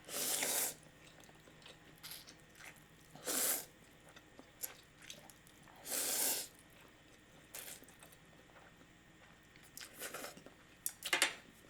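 Spicy miso ramen noodles being slurped in three short draws about three seconds apart, with quieter chewing sounds between them.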